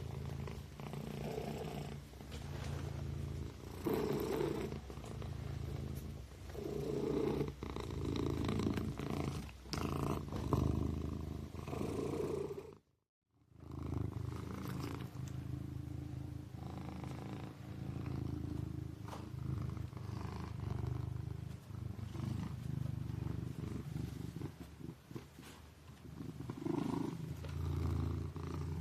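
Kitten purring steadily, swelling and fading with each breath. The sound cuts out for about half a second partway through, then resumes.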